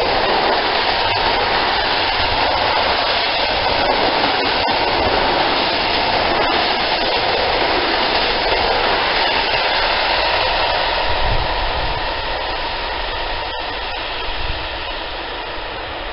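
Container freight train's wagons rolling past at speed: a steady rushing rumble of wheels on rail with a few sharp clicks. It fades after about twelve seconds as the end of the train passes and draws away.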